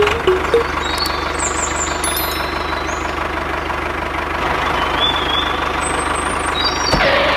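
Small engine of a DIY mini tractor running steadily, with a fast, even chugging pulse.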